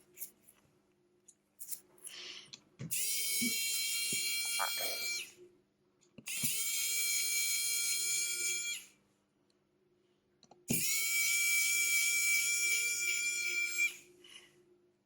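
A small electric tool motor whines at high speed in three runs of about two to three seconds each. Each run spins up quickly and then holds a steady pitch.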